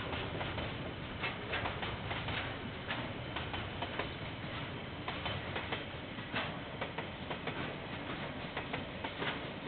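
A train rolling past, its wheels clicking and knocking irregularly over the rail joints above a steady rumble, heard through a security camera's microphone.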